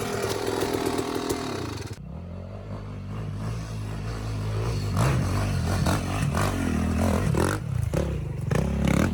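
Dirt bike engine running, with clattering and knocks. The sound changes abruptly about two seconds in to a lower, steady engine note.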